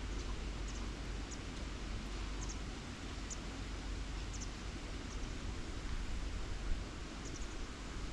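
Wind buffeting the microphone outdoors: a steady low rumble under an even hiss. A few faint, very short high chirps come and go.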